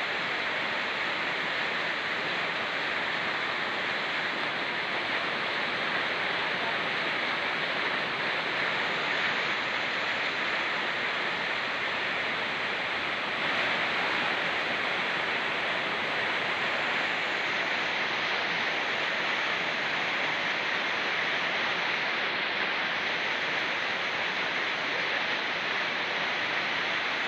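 A fast-flowing mountain river and falling rain: a steady, unbroken rush of water.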